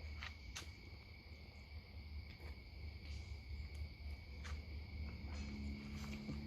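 Crickets trilling steadily over a low hum, with a few faint clicks; a low droning tone joins about five seconds in.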